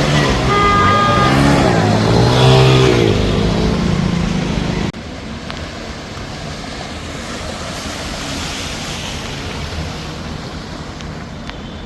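Road traffic: vehicle engines running and passing, with a few short high tones about half a second in. About five seconds in the sound cuts abruptly to quieter, steady traffic noise.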